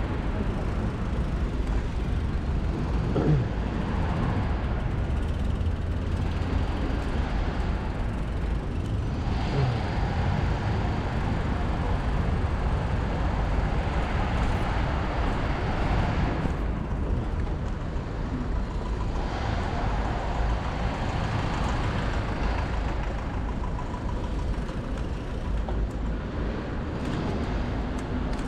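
Steady street traffic and road noise heard from a moving e-bike, with a deep rumble underneath.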